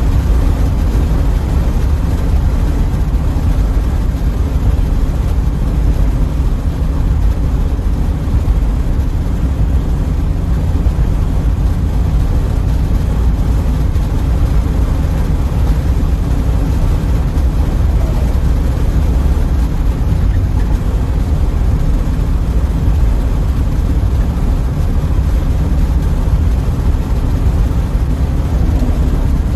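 Car on the road: a steady low rumble of engine and road noise that does not change.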